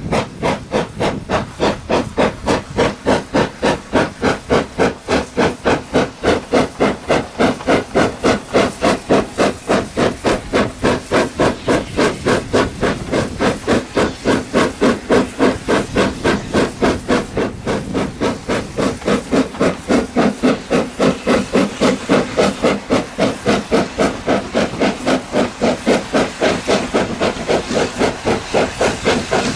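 Steam locomotive working hard, its exhaust beating in an even rhythm of about four chuffs a second with steam hiss underneath.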